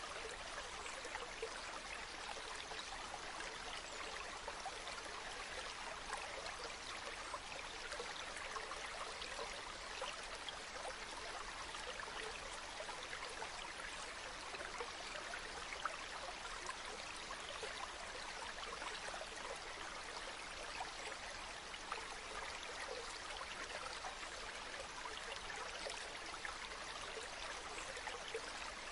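Waterfall: falling water rushing steadily, with fine splashing throughout and little deep rumble.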